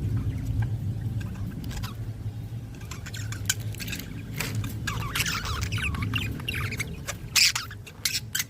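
Budgerigars chirping and squawking, busiest in the second half with a loud squawk near the end, over a steady low hum.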